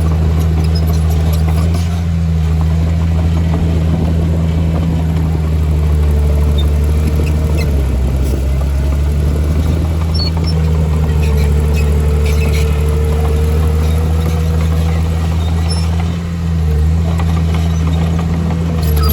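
Heavy diesel engine of earthmoving machinery running steadily with a deep, even hum. A fainter higher whine comes in twice for a few seconds.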